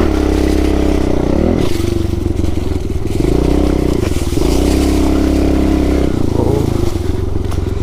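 Small four-stroke pit bike engine under way on a dirt track, revving up and easing off several times as the throttle is worked, with brief dips in between.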